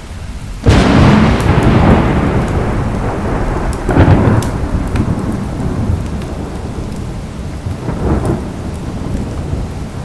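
Thunderstorm: a sudden loud thunderclap about a second in rolls off into a long rumble, with a second peal about four seconds in and a weaker one near the end, over steady heavy rain. Small crackling pops of a fireplace are scattered through it.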